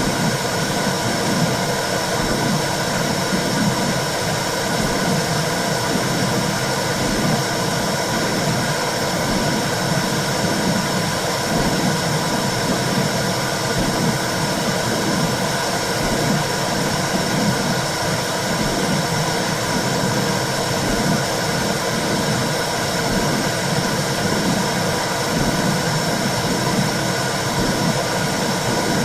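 Womb sound for soothing a baby: a steady whooshing noise with a regular, heartbeat-like pulse underneath.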